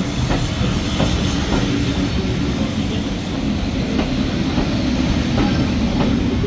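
Railway carriage running along the track: a steady rumble with irregularly spaced clicks as the wheels cross rail joints.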